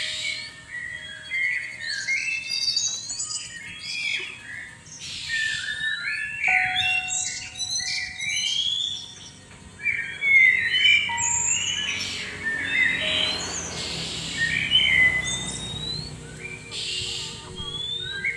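Oriental magpie-robins singing: a dense run of varied whistled notes, chirps and quick rising and falling phrases, with no pauses.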